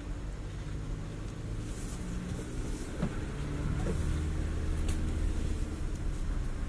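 Jeep Renegade's engine running under load, its tone stepping up and growing louder about three seconds in, with a few light knocks and clicks.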